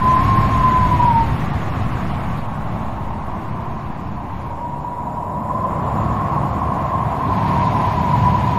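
Wind howling: a low, steady rumble with a wavering whistle that fades out about a second in and swells back from around the middle.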